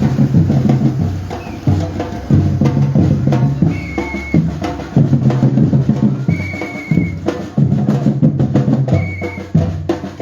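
Batucada drumming: a group of drums playing a loud, dense, steady rhythm, with three short held high tones cutting through, about four, six and nine seconds in.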